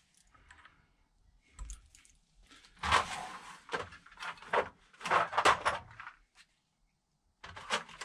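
Small metal tools and parts clinking and rattling as they are handled, in several short clattering bursts with a brief pause near the end.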